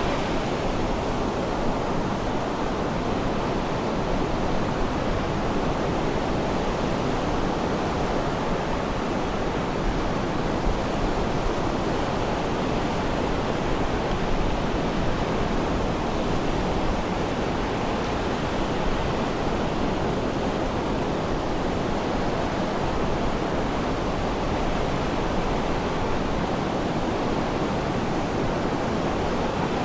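Steady rushing wash of sea surf, an even noise with no distinct wave breaks standing out.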